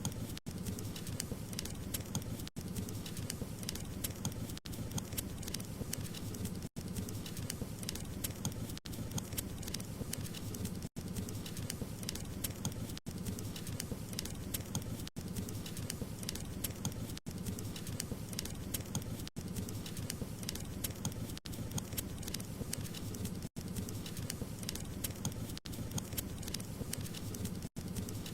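Wood fire crackling: a dense stream of small snaps and pops over a low rumble. The sound drops out for a split second about every two seconds.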